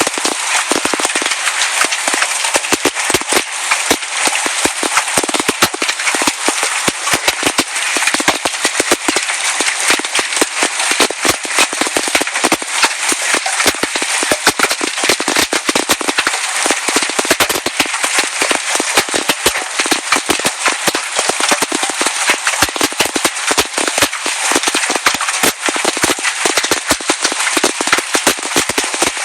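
Hail falling hard: a dense, unbroken clatter of hailstones striking, over a steady hiss of heavy rain.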